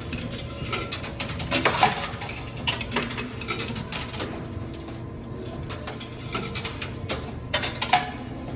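Quarters clinking against each other and sliding on a coin pusher arcade machine, with sharp metallic clicks that bunch up about two seconds in and again near the end, over the machine's steady low hum.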